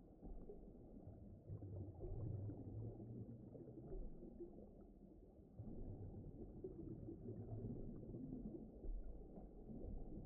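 Faint, muffled underwater-style ambience: a continuous deep rumble that swells and eases, with no high sounds in it.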